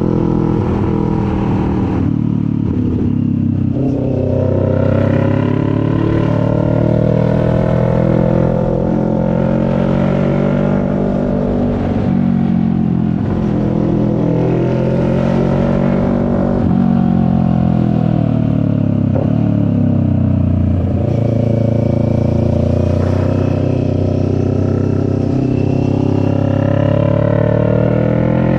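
CFMoto 400NK's parallel-twin engine under way, its revs rising and falling several times as the rider speeds up and eases off, over a low rumble of wind and road noise.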